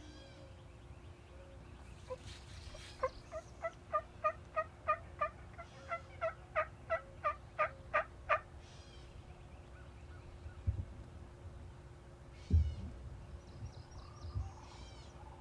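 Wild turkey calling: a run of about a dozen evenly spaced yelps, two or three a second, getting louder toward the end of the run. It is preceded by rattly gobble-like calls. A few dull thumps come near the end.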